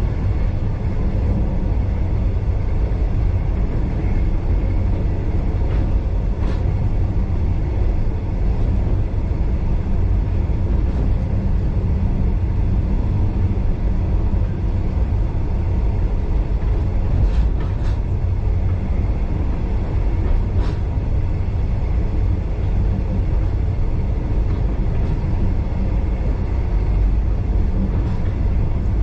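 Steady low rumble of a steam-hauled heritage passenger train running along the track, heard from inside the carriage, with a few faint clicks.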